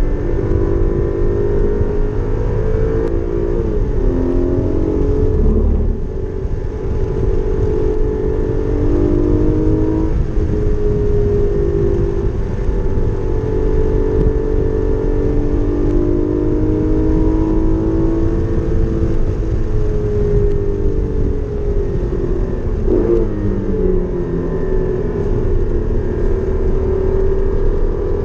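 Porsche Cayman GT4's flat-six engine driven at warm-up pace, its note climbing and falling repeatedly as it accelerates, changes gear and slows for corners, with a brief lift about six seconds in.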